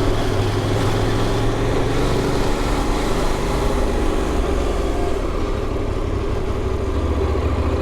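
KTM motorcycle engine running steadily at low revs; near the end its low note shifts lower and grows stronger.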